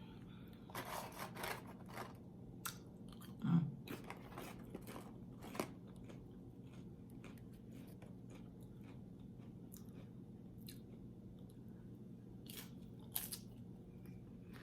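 A person chewing crisp food close to the microphone: irregular crunches and mouth clicks, thick in the first half and sparser later, over a faint steady low hum.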